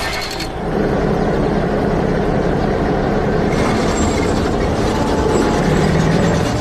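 Heavy vehicle engine running steadily, coming up about half a second in.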